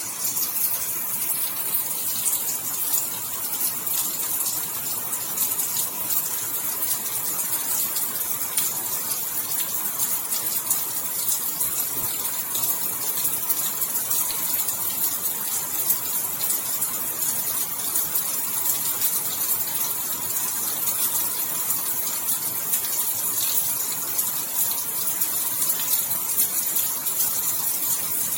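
Steady rain falling, an even hiss speckled with many small drop ticks.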